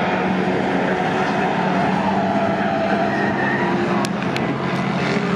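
Engines of historic pre-1966 touring cars running on track: a steady engine drone, with a few sharp clicks about four seconds in.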